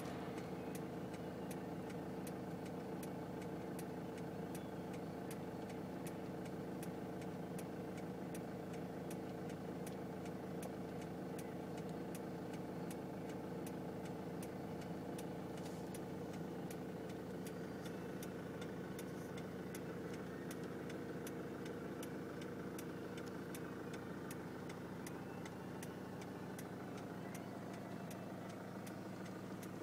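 Car engine idling, heard from inside the cabin, with a steady even ticking about twice a second.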